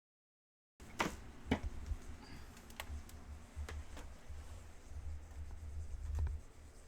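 Dead silence, then about a second in a microphone cuts in with a low hum and a string of irregular clicks and taps, like handling or desk clicks picked up close to the mic.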